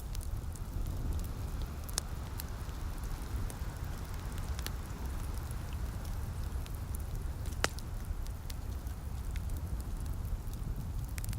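Wood fire crackling with scattered sharp pops, the two loudest about two seconds in and a little past halfway, over a steady hiss of light rain and a low rumble.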